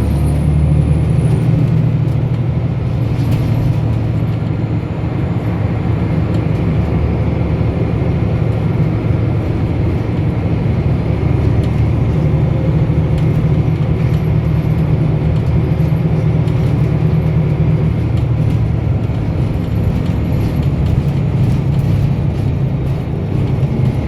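Diesel engine of a 2006 Scania L94UB bus running steadily under way, with a low engine drone and road noise.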